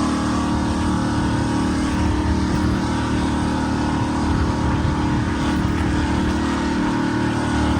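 A motor engine running steadily at a constant speed: an unchanging hum under a continuous rushing noise, with no revving.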